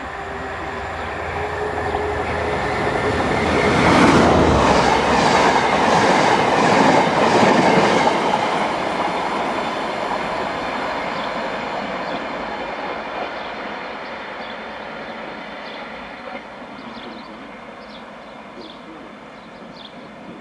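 A diesel train passing along the track. Its wheels clatter over the rail joints in a steady rhythm, loudest between about four and eight seconds in, then the sound fades slowly as the train draws away.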